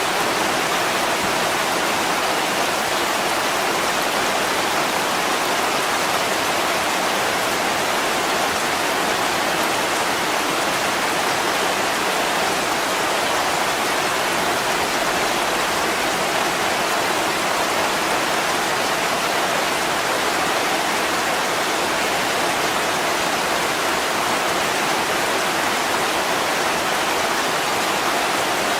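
Heavy rain pouring down steadily onto a window, an even, unbroken hiss with no separate drops standing out.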